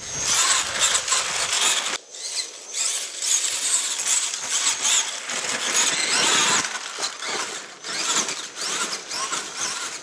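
Radio-controlled rock buggy driven hard: its brushed 550 electric motor and gears whining, with a rough, high noise that swells and drops off repeatedly as the throttle is worked.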